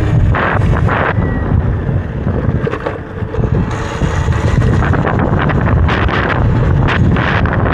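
Heavy wind buffeting on the microphone of a moving electric dirt bike: a loud, rough rumble, with brief louder rushes of hiss shortly after the start and again near the end.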